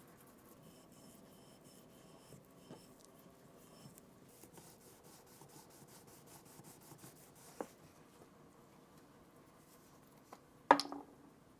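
Quiet rubbing and scraping of hand work on metal gun parts, with a light click about two thirds of the way in and a sharp knock near the end that rings briefly.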